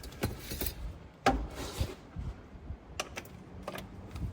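Scattered clinks and knocks of metal hand tools as a socket and ratchet are handled and set onto bolts, the loudest knock about a second in.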